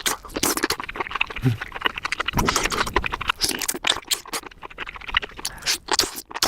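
Close-miked wet chewing of a juicy mushroom: a dense run of squelches and crackles as its juice bursts out in the mouth.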